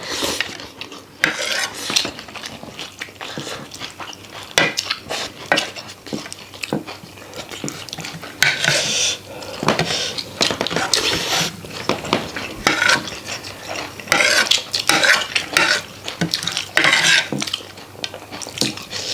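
Spoons clinking and scraping against plates while rice is mixed and eaten, in many short, irregular clicks and scrapes.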